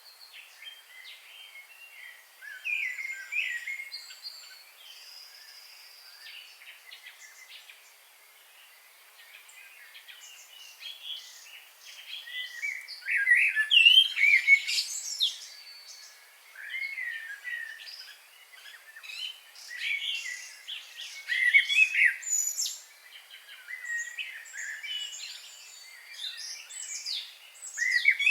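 Wild birds chirping and singing: short whistled notes and trills from several birds at once, sparse and quiet at first and busier and louder from about halfway through.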